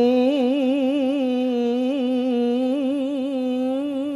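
A male Qur'an reciter holding one long melodic note without a break, steady in pitch and decorated with quick wavering turns, the drawn-out melisma of qiroah recitation.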